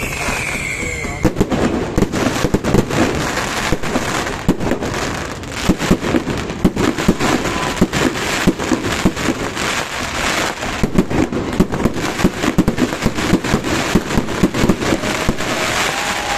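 Fireworks display: a dense, rapid run of bangs and crackles from bursting fireworks, with a thin whistling glide near the start and another near the end.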